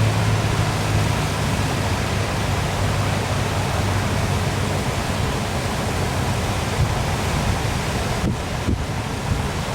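Waterfall: a steady, even rush of falling water, with a low hum underneath that fades out about halfway through.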